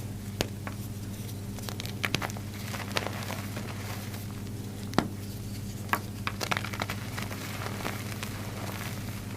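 Green jumbo block of reformed gym chalk being crushed, giving irregular crunching cracks in small clusters, with the loudest snap about five seconds in. A steady low hum runs underneath.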